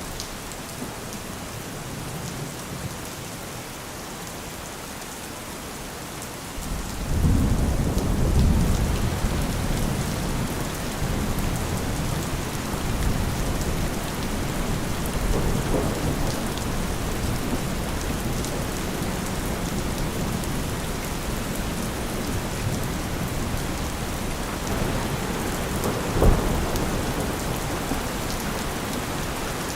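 Rain falling steadily, with low thunder: a long rumble swells up about a quarter of the way in and rolls on, and a short, sharper thunderclap comes near the end.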